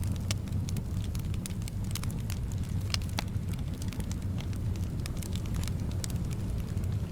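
Wood fire burning in a fireplace: a steady low rumble with irregular sharp crackles and pops, several a second, over a soft background of wind.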